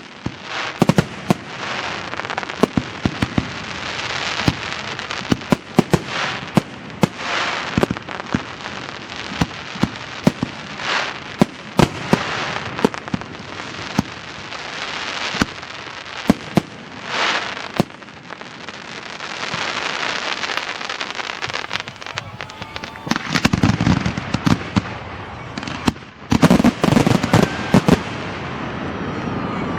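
Fireworks display: a rapid series of sharp bangs and crackling from bursting shells, building to a denser, deeper barrage in the last few seconds.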